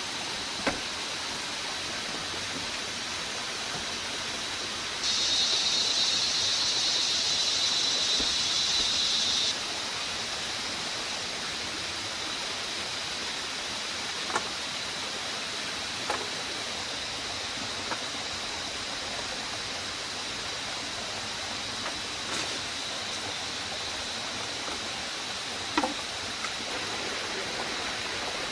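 Outdoor forest ambience: a steady rushing hiss with a faint high steady tone. A louder, high-pitched buzz sets in about five seconds in and stops suddenly about four seconds later. A few sharp, isolated knocks are scattered through it.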